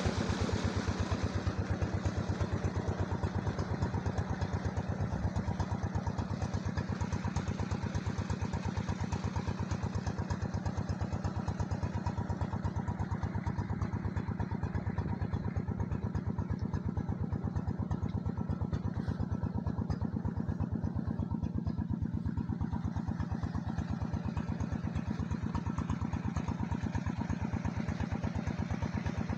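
Diesel engine idling steadily, with an even, rapid beat of firing pulses.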